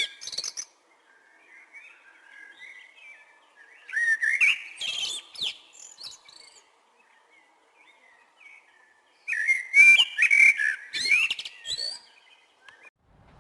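Chopi blackbird (the 'pássaro-preto') singing: loud phrases of gliding whistles mixed with sharp clicks, one about four seconds in and a longer one from about nine seconds, with softer warbling between.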